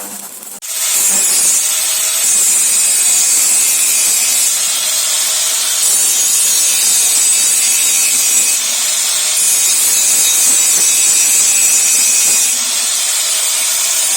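A power tool running steadily on the machine's metal: a loud, even, high-pitched noise that starts about a second in.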